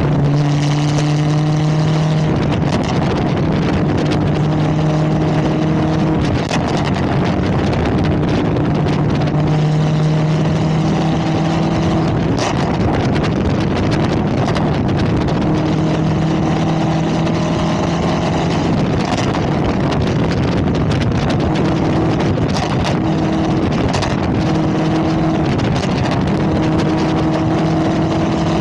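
Straight-piped supercharged 6.2 L V8 of a 2022 Camaro ZL1, with 2-inch long-tube headers and no mufflers, running under way with a loud, deep drone. Its tone rises slightly and drops back several times.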